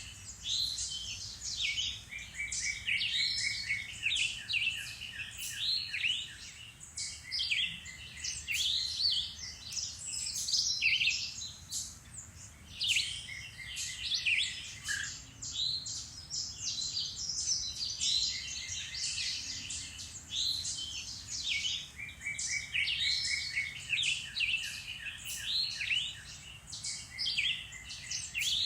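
Several woodland birds singing at once: overlapping chirps, whistled phrases and short rapid trills of evenly repeated notes, continuing without a break.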